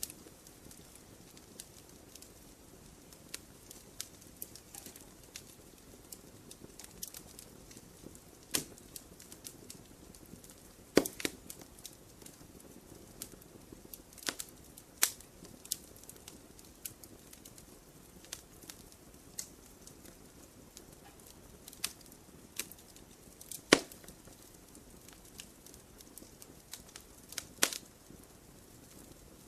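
Wood campfire burning with a soft hiss and irregular crackles, with a few sharper, louder pops from the burning wood.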